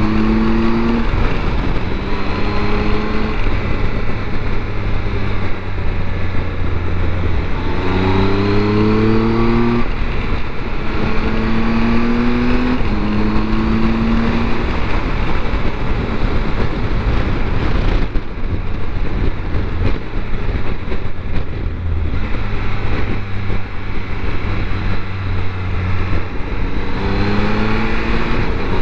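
Triumph Tiger 1200's three-cylinder engine pulling up through the revs again and again, each rise cut short as it shifts or rolls off, over a steady rush of wind noise. Through the middle the engine falls back under the wind, then picks up again near the end.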